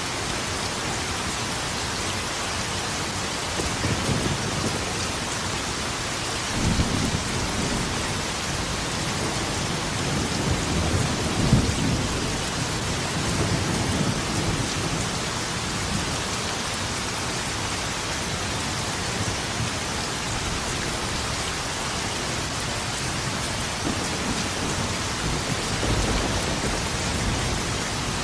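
Steady heavy rain hissing, with rolls of thunder rumbling low several times, the loudest crack about eleven seconds in and a fainter roll near the end.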